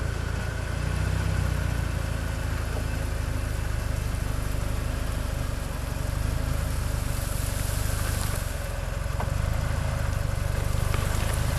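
Off-road SUV engine running at low revs in its lowest gear, the vehicle crawling on a slipped clutch. The engine note is steady, swelling slightly a few times.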